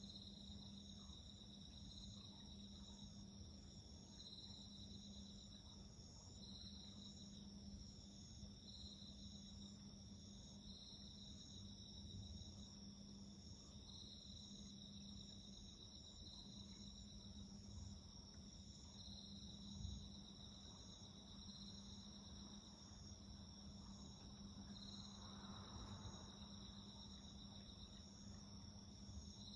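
Faint insects chirping: several steady high trills together, one swelling about every two seconds, over a low hum.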